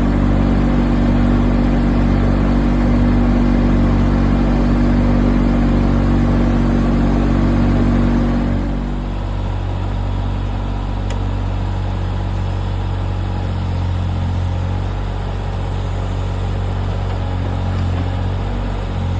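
Diesel engine of a 3-tonne backhoe loader running steadily at working revs. About eight and a half seconds in its note drops and it becomes a little quieter, as the load or throttle eases.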